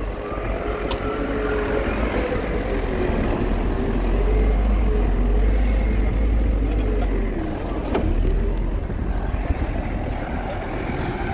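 Caterpillar wheel loader's diesel engine running, growing louder for a few seconds in the middle. A sharp click comes near the end.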